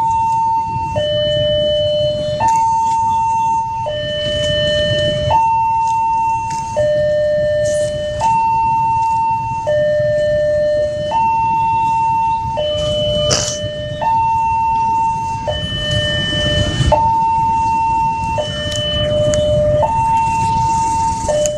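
Railway level-crossing warning alarm sounding its two-tone signal, alternating between a higher and a lower tone about every one and a half seconds, over a low rumble. The alarm is the sign that the crossing is closed for an approaching train.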